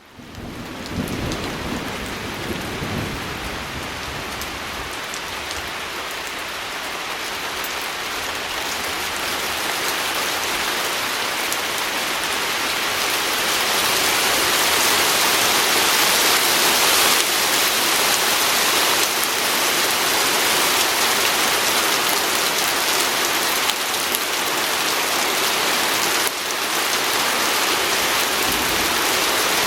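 Steady heavy rain pattering on a window, fading in at the start and growing gradually louder.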